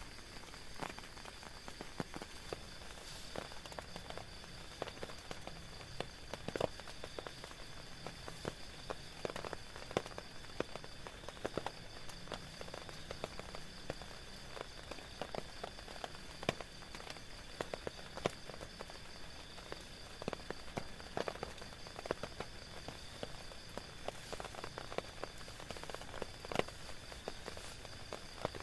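Rain on a tent's fabric: drops tapping at irregular moments over a steady patter, with a steady high-pitched hum underneath.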